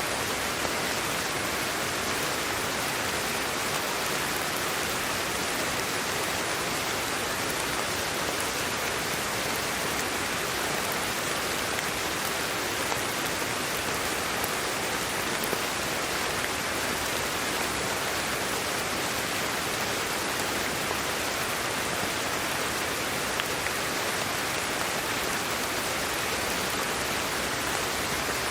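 Steady, even sleep-aid white noise: an unbroken rain-like hiss that does not change in level or character.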